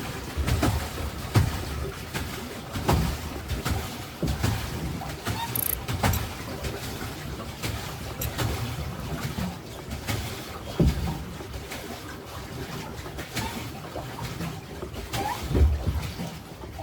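Water splashing and sloshing, with irregular low thumps every second or so.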